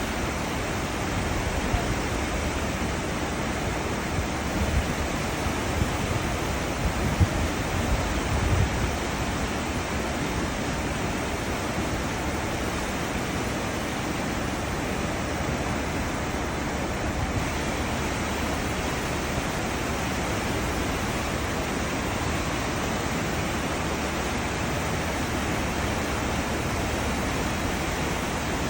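Churning water of a cruise ship's wake, a steady, even rush, with a few brief louder low bumps between about four and nine seconds in.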